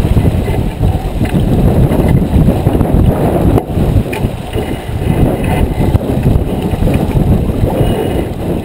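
Wind buffeting the microphone aboard a J24 sailboat under way: a loud, gusty rumble that rises and falls.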